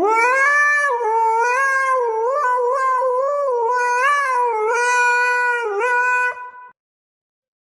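A dog howling: one long, wavering howl that cuts off suddenly after about six and a half seconds.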